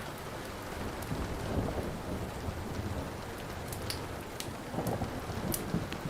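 Steady rain with low rumbling thunder, and a few sharp crackles and pops from a burning wood fire in the second half.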